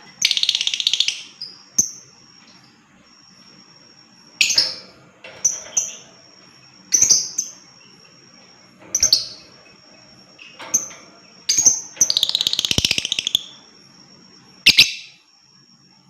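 Lovebird calling: a series of short, shrill chirps broken by two long, rapid chattering trills, the 'ngekek' of a lovebird, one at the start and one about twelve seconds in. A thin, steady high tone runs between the calls.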